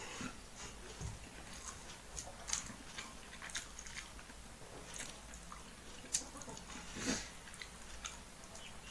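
Close-up mouth sounds of a person eating rice and fish curry by hand: chewing and lip smacks, with scattered soft clicks and two louder smacks about six and seven seconds in.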